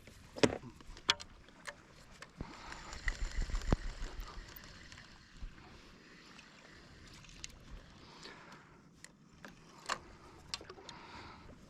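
Water lapping and sloshing around a fishing kayak, with scattered light knocks and clicks from handling gear on board.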